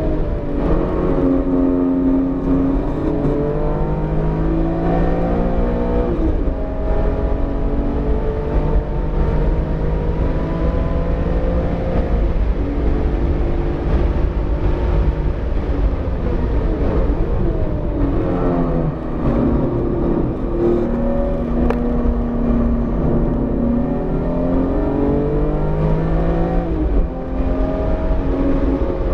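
BMW E46 M3's straight-six engine repeatedly revving up under acceleration, stepping through gear changes and dropping off for braking, over heavy road and wind rumble. The engine is freshly rebuilt and still in break-in, so the revs are held below 7,000 rpm.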